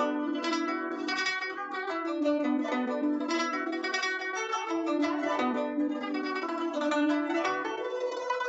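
Guzheng played in a quick run of plucked notes, with the strings ringing on between plucks.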